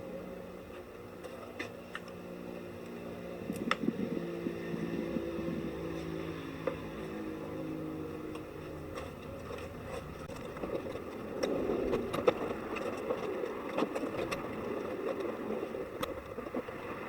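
A car battery being handled into place, with a few light knocks and a rustling, scraping stretch about two-thirds of the way through, over a steady low hum whose pitch shifts.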